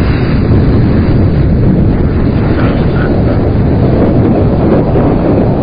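Loud, steady low rumble without distinct events: wind buffeting the microphone.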